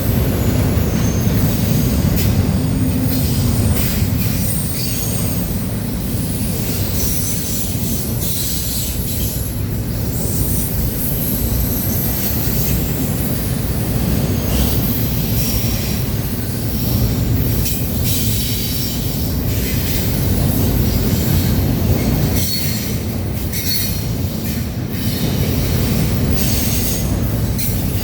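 Freight train cars rolling past close by: a steady low rumble of wheels on rail, with high-pitched wheel squeals that come and go and some clickety-clack over the rail joints.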